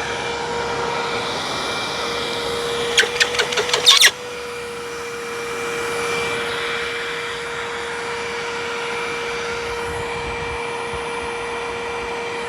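Hoover WindTunnel upright vacuum running steadily with its bag-check warning on and its HEPA bag packed full. About three seconds in, a quick burst of rattling clicks, after which the motor hum settles a little quieter and carries on.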